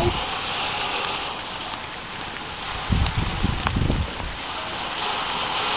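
Steady hiss of heavy rain falling, with a low rumble for about a second around three seconds in.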